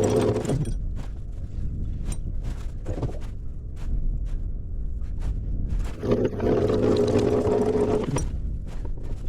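A machine hum in two runs of about two seconds, the second starting about six seconds in, with scattered clicks and knocks between them over a steady low engine rumble, on a small sailing boat during anchoring.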